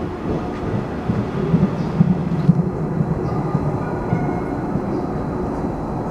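A train pulling into the platform: a steady low rumble of wheels on rails with scattered knocks, loudest around two seconds in.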